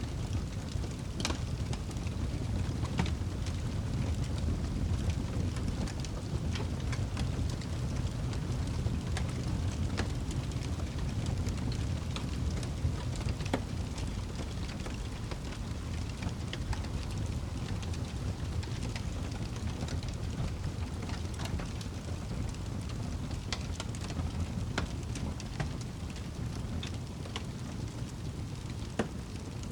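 Campfire burning, the wood crackling and popping at irregular moments over a steady low rumble. There is a sharp pop about a second in and another, the loudest, near the end.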